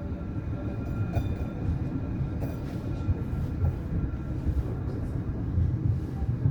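Tramway du Mont Blanc electric rack-railway train running: a steady low rumble with a few brief clicks and faint steady tones above it.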